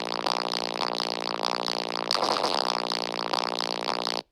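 A loud, buzzy held tone with many overtones, a meme sound effect, with a brief wobble in pitch around the middle; it cuts off abruptly near the end.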